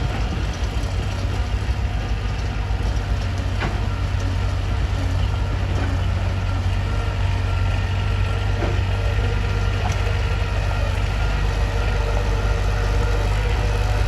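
A bulldozer's diesel engine runs steadily at a low, even drone, with a few faint knocks.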